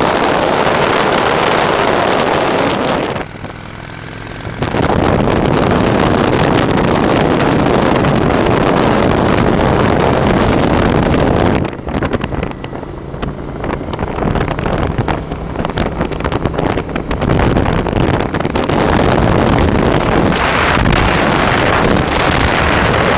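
Motorcycle engine running while under way, heavily covered by wind buffeting the microphone; the wind noise drops for a moment about three seconds in, then comes back just as loud.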